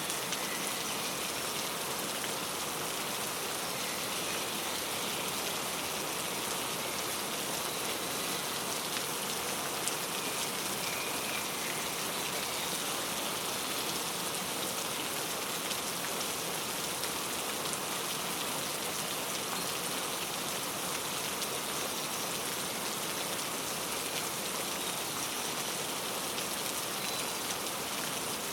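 Steady rain falling, an even hiss of drops, with a few faint short bird chirps now and then.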